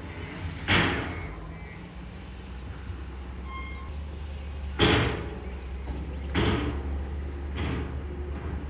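Heavy machinery engine running steadily, with four sharp bangs: one near the start, the loudest about five seconds in, and two more close together near the end.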